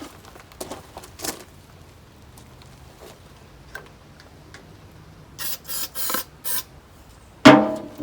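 Hands working on metal equipment: a few light clicks and knocks, then four short hissing bursts a little past the middle, and one loud clank near the end.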